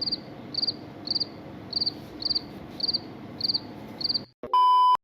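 A cricket chirping steadily, a short high chirp about twice a second, eight times. Near the end it cuts off and a short, loud electronic beep sounds.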